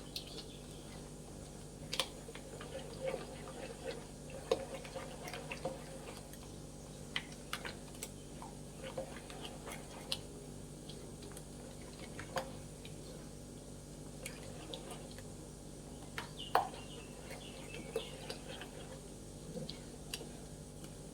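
A spoon mixing a thick masala marinade in a bowl: scattered soft clicks and taps of the spoon against the bowl, over a faint steady hum.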